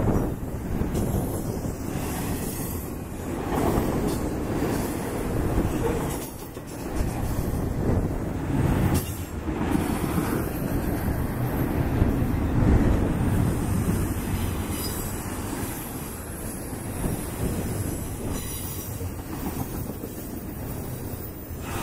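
Double-stack intermodal well cars of a freight train rolling past close by: steel wheels rumbling and clacking over the rail, the loudness swelling and dipping as trucks pass, with a faint high wheel squeal in the later part.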